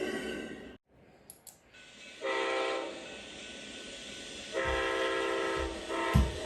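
Amtrak P42DC locomotive's air horn sounding the grade-crossing signal: two long blasts, a short one, then a long one beginning, with deep thumps from the passing train near the end. The first second is the tail of background music, which cuts off before the horn.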